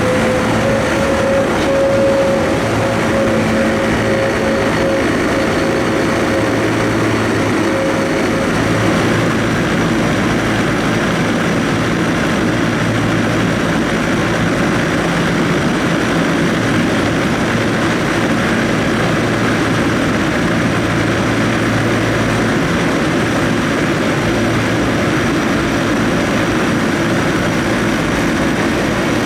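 Trieste-Opicina tram running, a steady loud rumble with a low motor hum. A thin whine fades out about nine seconds in.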